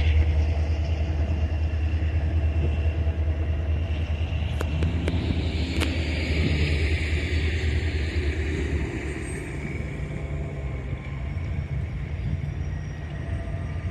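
Low rumble of a passing train, with a hiss that swells and fades in the middle; the rumble drops away about two-thirds of the way through.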